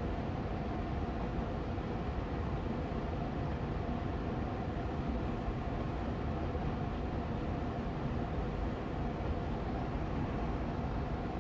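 Austin Air Allergy Machine air purifier's fan running steadily on medium speed: an even, unchanging hum with a faint steady tone in it.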